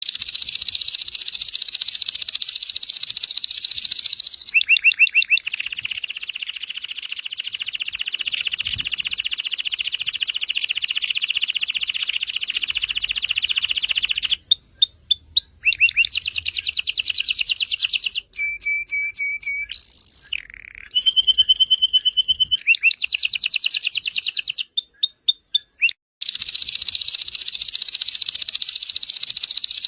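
Domestic canary singing full, continuous song: long rolling trills of rapidly repeated notes, switching to a new trill type every second or few, with brief breaks.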